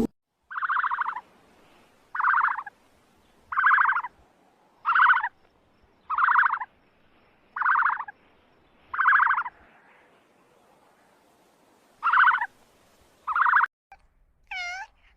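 An animal's loud, rattling calls, each about half a second long, repeated at an even pace: seven in a row, a pause, then two more. Near the end comes one short cry that bends up and down in pitch.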